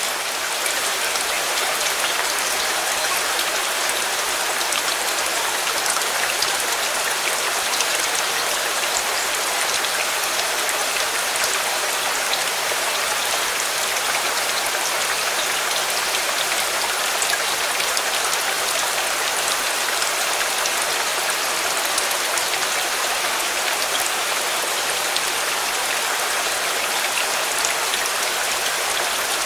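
Steady rain falling on a surface: an even, unbroken hiss sprinkled with small drop ticks.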